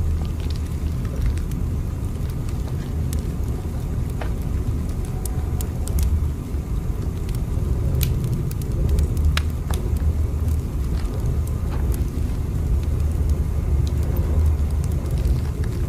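Train in motion, a steady low rumble with scattered light clicks and rattles over it.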